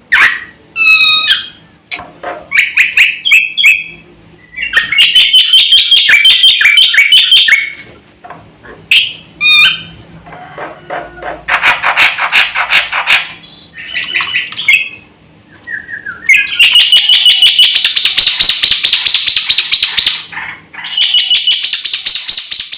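Black-winged starling (jalak putih) singing loudly in a varied stream of whistles, gliding notes and chatter, broken by short pauses. Two long, fast rattling trills come about midway and near the end.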